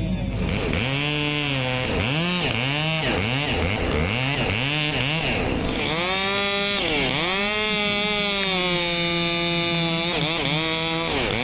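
Chainsaw revving in a series of quick throttle blips, then held at full throttle for several seconds as it cuts a small ash tree at the base, its pitch dipping briefly partway through. It drops back to a couple of short blips near the end.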